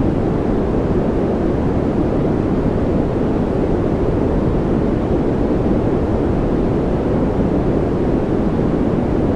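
Steady white-noise track for focus and relaxation: an even, unchanging hiss weighted toward the low end, more a deep rush than a bright hiss.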